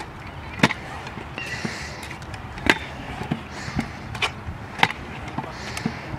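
Pro scooter rolling back and forth across a skatepark ramp, its wheels landing with a sharp clack about every two seconds as the rider lands repeated kickless tricks, with a rolling hiss and lighter knocks in between.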